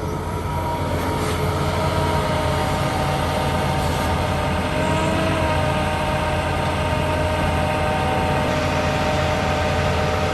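Heavy diesel earthmoving machinery running steadily: a low engine drone with a steady whine above it.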